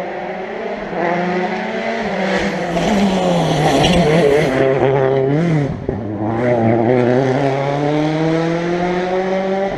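Rally car engine on a special stage, getting louder as the car approaches. Around the middle the engine pitch drops and wavers as the car brakes and changes down, then the pitch rises in one long, steady climb as it accelerates away under load.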